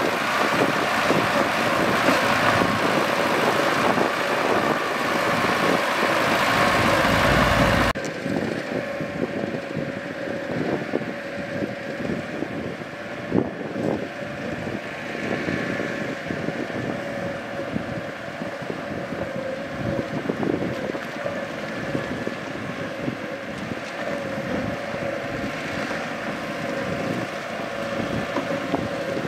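Mitsubishi BD2G bulldozer's diesel engine running under work, with scattered knocks and clanks. About eight seconds in the sound changes abruptly to a quieter, steadier engine note.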